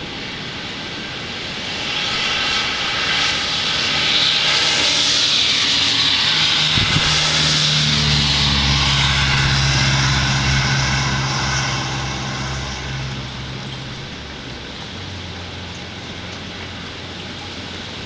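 A motor vehicle passing by: a hiss that swells from about two seconds in, with a steady low engine hum near the middle, then fades away.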